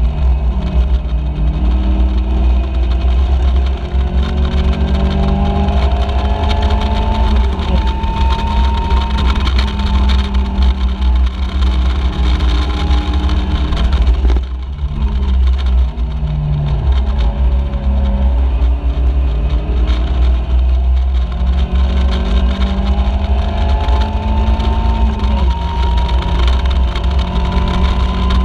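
Caterham Seven race car engine, heard from the cockpit, pulling hard and climbing in pitch through the gears, easing off for a corner about halfway through, then winding up again near the end. A heavy low rumble of wind buffeting the onboard microphone runs underneath.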